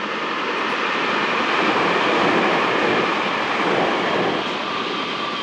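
Meitetsu electric train passing at speed: a steady rushing rumble of wheels on rail that swells to its loudest about two seconds in and then eases, with a faint steady whine coming in during the second half.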